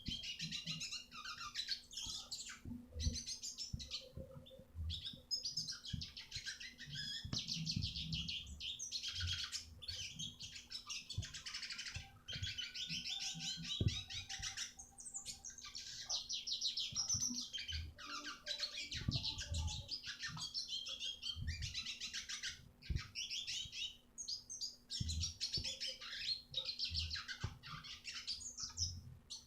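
Red siskin singing a long, fast twittering song broken by short pauses.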